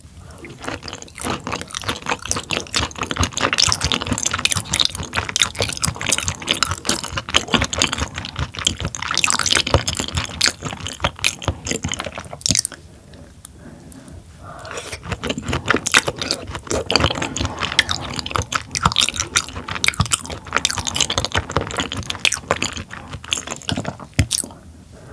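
Close-miked wet chewing of raw tuna sashimi: a dense run of soft, squishy mouth clicks, with a short lull about halfway through.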